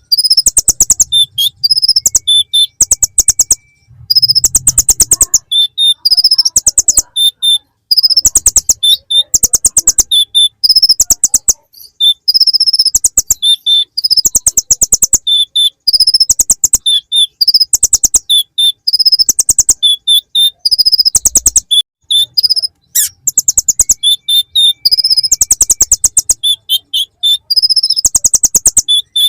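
Kolibri ninja sunbird singing a song packed with imitations of the bar-winged prinia (ciblek): high, rapid ticking trills in phrases about a second long, repeating with short pauses.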